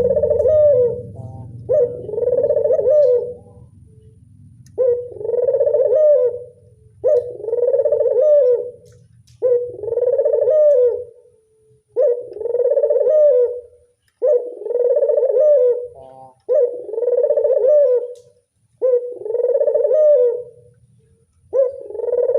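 Barbary dove (burung puter) cooing repeatedly: about ten coos, each lasting a second and a half, one about every two and a half seconds.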